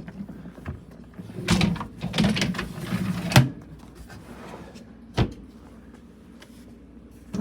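Plastic parts of a countertop dishwasher being handled: a stretch of rubbing and clattering that ends in a sharp clack, then a single knock a couple of seconds later.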